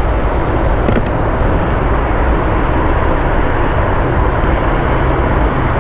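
Wind buffeting the microphone, a steady loud rumble with an uneven low end.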